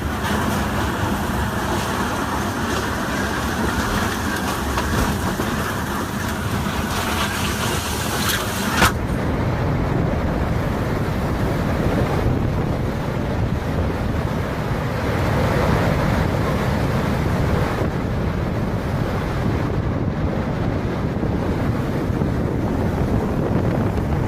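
Strong storm wind buffeting the microphone, a steady rushing noise. About nine seconds in it changes abruptly from a hiss-heavy rush to a deeper, duller rumble.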